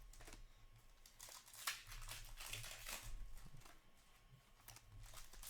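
Faint crinkling and rustling of trading-card pack wrappers and cards being handled, with scattered light ticks and scrapes.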